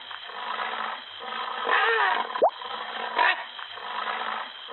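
Rhinoceros call recording, a rough, noisy call with short pitched squeals, played twice back to back; a quick rising glide marks the restart about two and a half seconds in.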